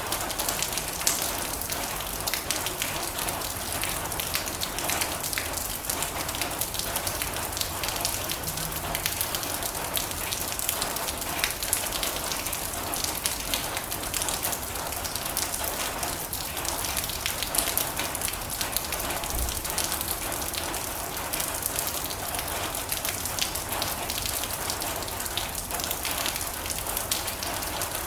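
Heavy rain drumming steadily on a metal roof, a dense hiss of many small sharp drop impacts.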